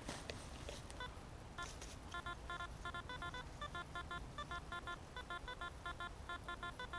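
Metal detector giving rapid short electronic beeps, several a second, starting about a second in, signalling metal under the coil.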